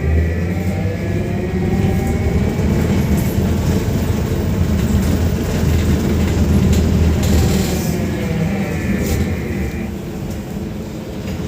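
Electric traction drive of a VMZ 5298.01 Avangard trolleybus heard from inside the cabin over a heavy low road rumble. The drive's whine rises in pitch over the first few seconds, holds, then falls again near the end as the trolleybus speeds up and then slows.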